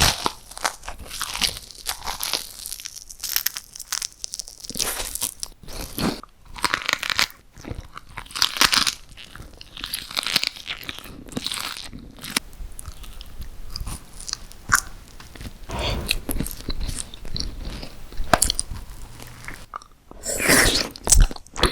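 Close-miked bites and chewing of crunchy food, with irregular bursts of crunching throughout and a loud crunch near the end.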